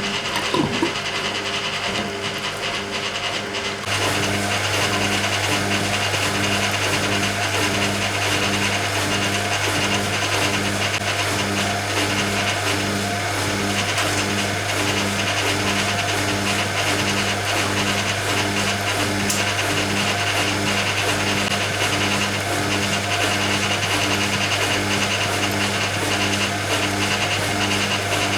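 Hoover Keymatic A3112 washing machine draining after its final rinse, heard from inside the machine. About four seconds in, a steady low motor hum comes on, with a regular pulsing beat over it.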